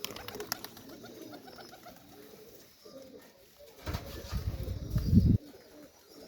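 Serbian Highflyer pigeons cooing in the loft. There is a quick run of sharp clicks at the start, and a loud low rumble from about four seconds in that cuts off suddenly after about a second and a half.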